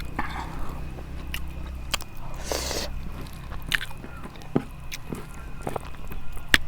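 Close-up eating sounds: a person biting and chewing a mouthful of rice and curry, with scattered small clicks, smacks and crunches.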